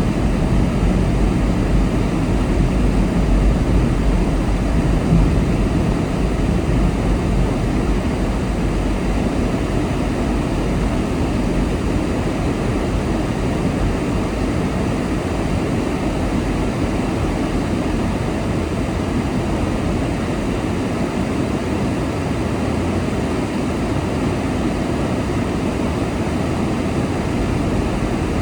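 Steady road noise of a car driving at speed: a low rumble of tyres and engine with a hiss of wind.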